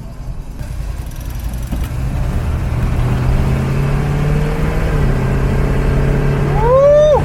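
Small-block Chevy V8 of a 1941 Chevy pickup running while the truck is driven, the engine getting louder with its pitch creeping up, then stepping down about five seconds in. Near the end a short, high, arching call cuts through.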